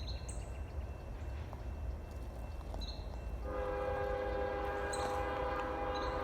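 Diesel freight locomotive's air horn sounding one long blast, a chord of several steady tones, starting suddenly about three and a half seconds in, over a low rumble.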